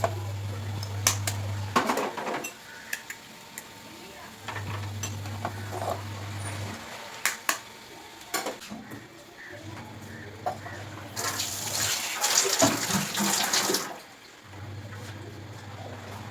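Eggs cracked one after another, with sharp taps of shell on the pan or bowl, and about three seconds of loud rushing hiss like a running tap about two-thirds of the way through. A low hum comes and goes every couple of seconds.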